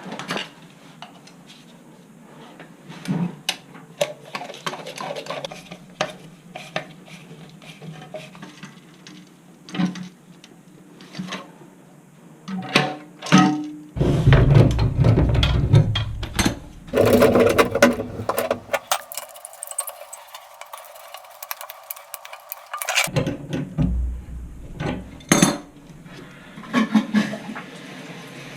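Hard objects clinking and knocking, irregular and scattered, like tools and parts being handled. A louder stretch of heavier knocking comes about halfway through.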